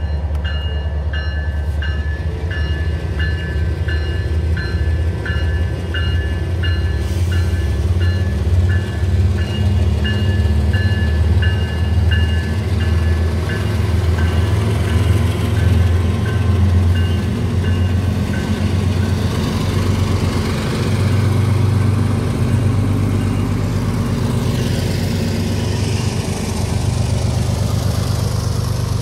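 Level-crossing warning bell ringing at about one and a half strokes a second over the low rumble of freight diesel locomotives passing. Partway through the bell stops, leaving the locomotives' engines and the rushing, rolling noise of the passing train.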